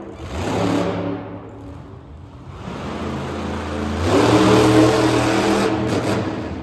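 Monster truck engine revving hard: it surges about half a second in, falls away near two seconds, then builds again to its loudest from about four seconds before easing off near the end.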